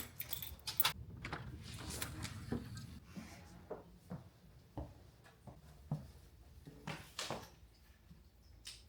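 Scattered light knocks and clicks, about a dozen, spaced irregularly: household handling noise such as things being moved, set down or a door or drawer worked.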